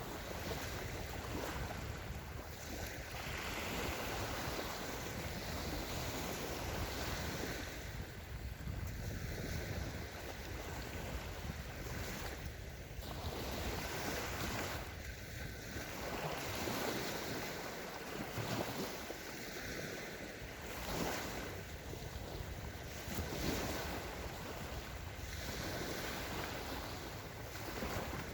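Small Sea of Azov waves washing onto a sandy beach, surging and falling back every two to three seconds, with a low wind rumble on the microphone.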